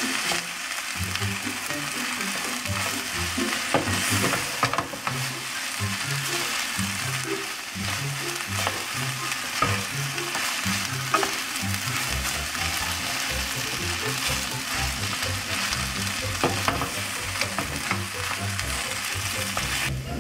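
Kimchi fried rice sizzling in an oiled wok as it is stirred and tossed with a wooden spatula. The spatula knocks and scrapes against the pan now and then.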